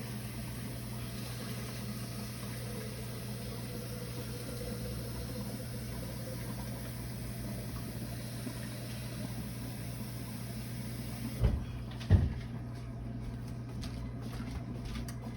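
Steady low hum of a kitchen background, then two sharp knocks near the end, under a second apart.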